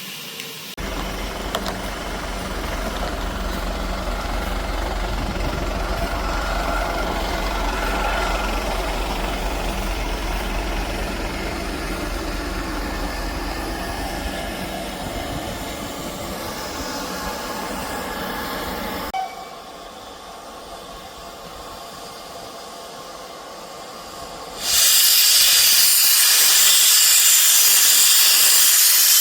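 Steam railway sounds: a train running with a low rumble, then after a quieter stretch a loud, steady hiss of steam starts abruptly near the end.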